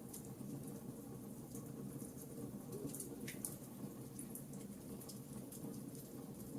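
Wood fire in a fireplace crackling: frequent small, sharp pops over a steady low rush.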